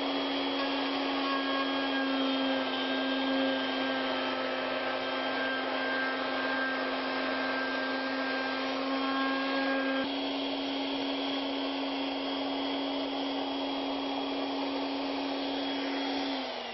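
Wood router on a Legacy ornamental mill running at a steady high speed, its tone shifting slightly about ten seconds in. Near the end it is switched off and its pitch falls as the motor winds down.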